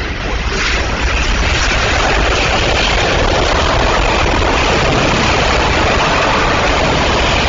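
Bombardier Global 6000 business jet's Rolls-Royce BR710 turbofan engines on landing: a loud rush of jet noise that swells about half a second in and then holds steady.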